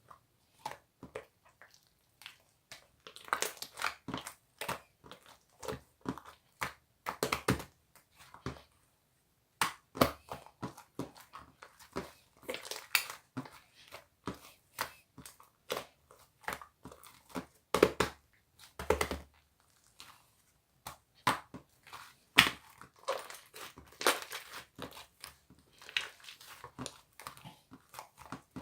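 Two-layer mixed slime being worked by hand, giving irregular crackling clicks and pops as it is pressed, folded and stretched.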